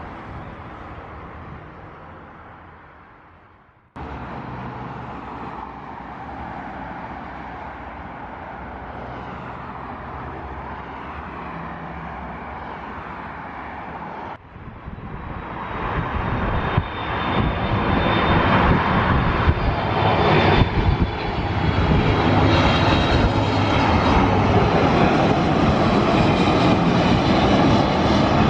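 Jet airliner engines, heard in three edited segments. The first sound fades away, then there is a steady, moderate rumble. About halfway through, a much louder engine noise with a high whine builds up and stays loud.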